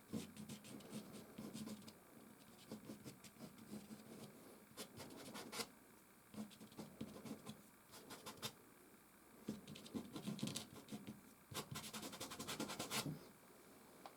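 Soft pastel sticks scratching across canvas in quick back-and-forth strokes, coming in several runs with short pauses between them.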